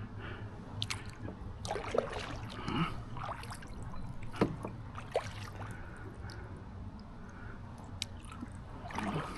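Paddle strokes working a solo canoe through the water: irregular splashes, drips and small gurgles from the blade entering and leaving the water.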